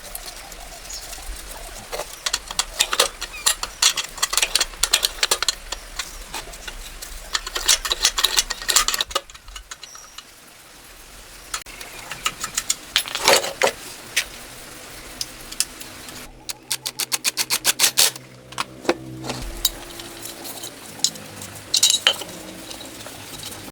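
Metal tools and parts clinking, tapping and scraping during hands-on engine work, with a fast run of evenly spaced clicks about two-thirds of the way through.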